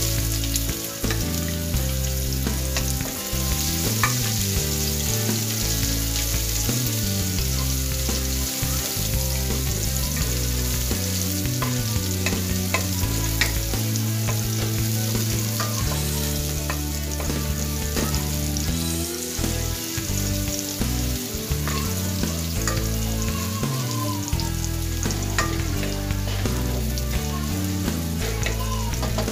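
Garlic and chopped onion sizzling in hot oil in an aluminium pot, stirred continuously with a wooden spatula that scrapes and taps against the pot: the sauté stage of a dish.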